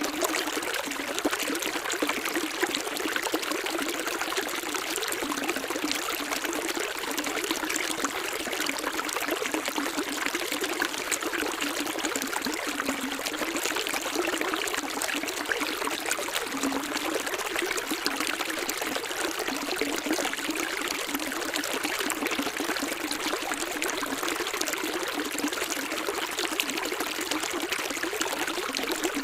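Running water flowing steadily with a fine, continuous splashing trickle.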